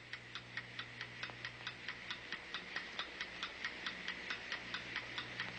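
A clock ticking fast and evenly, about five ticks a second, over a faint steady hum.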